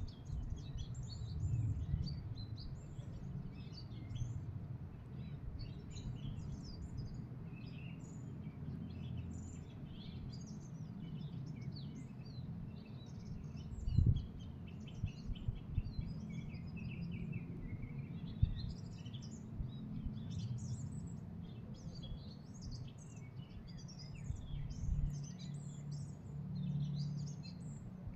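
Small birds chirping and twittering continuously, many short high calls overlapping, over a steady low rumble. A single dull thump stands out about halfway through.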